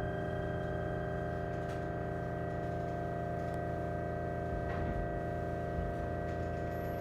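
E129-series electric train standing still, its onboard electrical equipment giving a steady hum made of several fixed whining tones, with one faint click about five seconds in.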